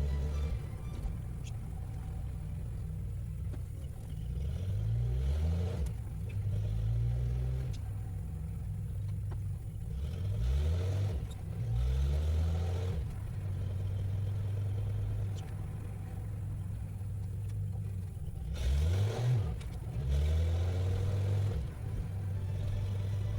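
Engine of an early-1960s Dodge Lancer driving on the road. Its revs climb and fall back at each gear change, three times, with steady cruising between.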